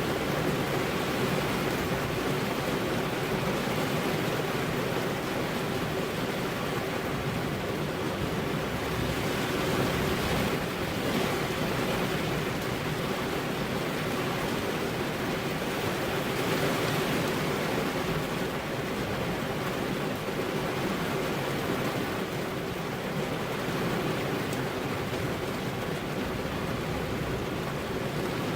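Heavy rain falling steadily, an even hiss that swells slightly a couple of times.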